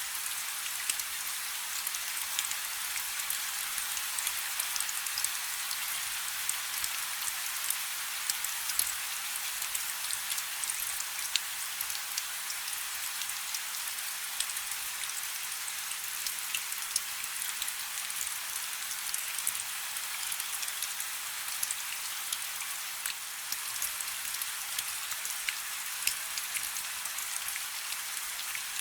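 Steady rain falling on a river: an even high hiss dotted with many sharp drop ticks.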